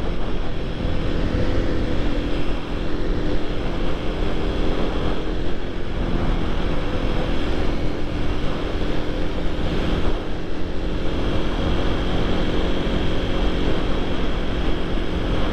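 Supermoto motorcycle engine running steadily while riding, with a broad rush of wind and road noise.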